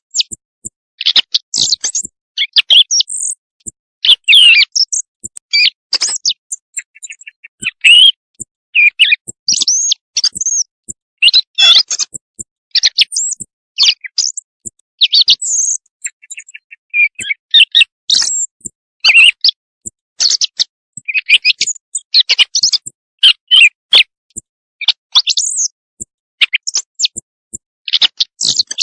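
Recorded bird calls from a hunter's night-time lure for quail: a dense run of short, varied, high chirps and tweets with brief gaps between them.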